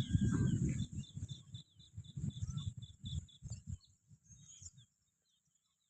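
A bird chirping in a quick series of short, high notes, about four a second, that stops after about three seconds, over a low rumbling noise that fades out shortly before the end.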